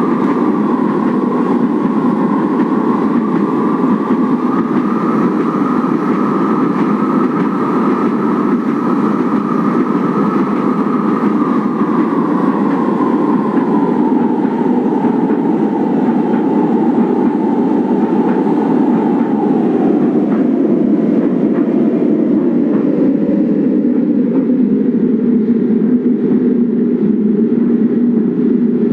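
Manila LRT Line 1 1200-series light rail train running, a steady rumble of wheels on rail under a motor whine. From about a third of the way in the whine falls steadily in pitch, the sign of the train slowing down.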